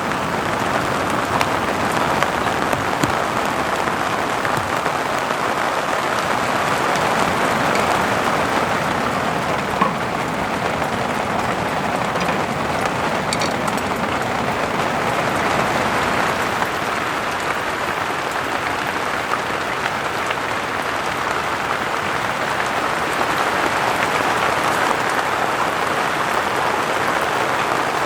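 Steady rain falling: a dense, even hiss of many small drops striking a surface.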